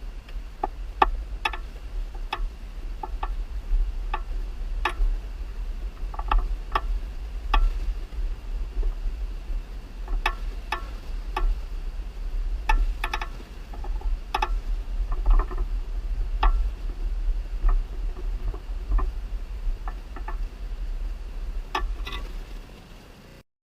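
CNC vertical milling machine running, with irregular sharp metallic clicks and clanks over a steady low hum and a faint high whine. The sound cuts off abruptly near the end.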